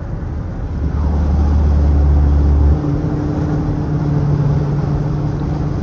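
Straight-piped Dodge Charger R/T's 5.7 L HEMI V8 exhaust on the move: a deep drone builds about a second in, then drops off suddenly near the three-second mark into a steadier, higher engine note.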